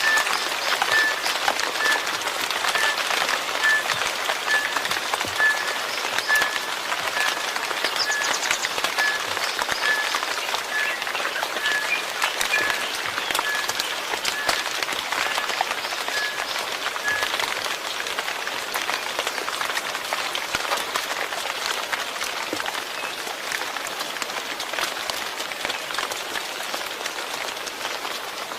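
Steady rain falling, with many separate drops striking close by as sharp little ticks. A faint high chirp repeats about every two-thirds of a second, stopping about 17 seconds in.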